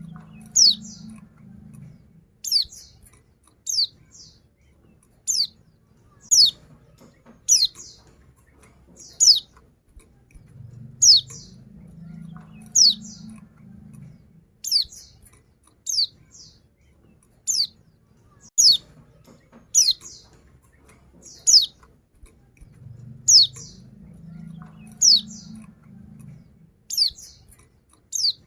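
Female white-eye (pleci) giving a short, high, down-slurred call over and over, about one every second and a half, the kind of call played to get male white-eyes singing. A faint low hum comes and goes behind it.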